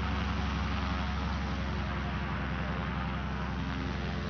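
Extra 330LT's Lycoming IO-580 flat-six engine and propeller running steadily in flight, a deep drone that slowly gets quieter.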